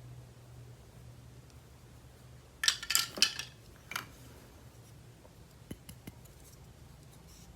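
Hands handling toy packaging or plastic toy pieces: a short cluster of sharp clicks and crinkles about three seconds in, one more click a second later, then a few light ticks, over a low steady hum.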